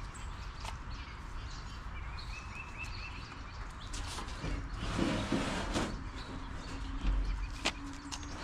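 Rustling handling noises with a sharp click near the end. A small bird chirps a quick run of short notes in the background about two seconds in.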